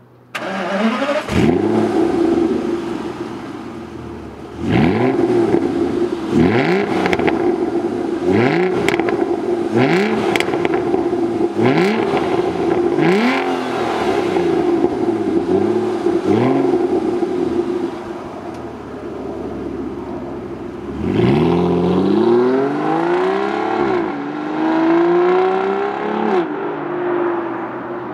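2009 Aston Martin DB9's 5.9-litre V12 starting up and settling into a raised idle. It is then revved in about eight quick blips, idles briefly, and pulls away under gentle acceleration, the engine note rising twice with a gear change between.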